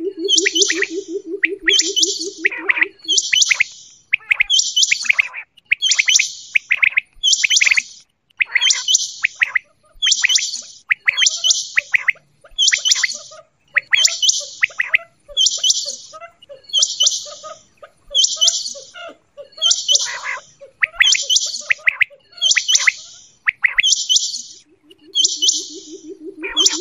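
Quail calling over and over: a short high call about once a second, with falling notes beneath it. A low, rapidly pulsing purr runs through the first three seconds and starts again near the end.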